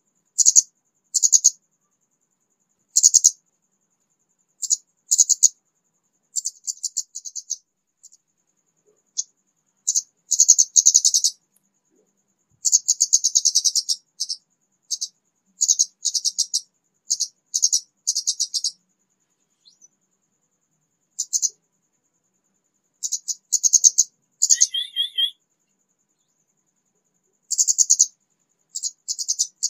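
A kemade songbird, a freshly wild-caught bird just beginning to sing, giving short bursts of fast, scratchy, high-pitched chatter, phrase after phrase with short pauses between. About 25 seconds in comes a lower, warbled call.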